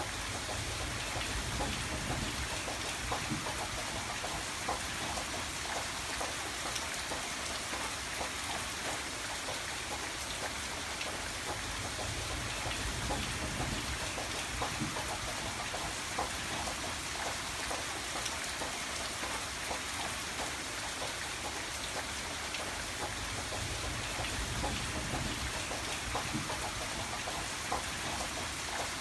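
Steady rain falling, with a continuous hiss and many small drops ticking on a hard surface.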